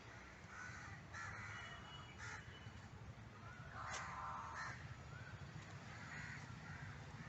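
Crows cawing faintly, a scattered series of short calls with a slightly stronger caw about four seconds in, over a steady low outdoor rumble.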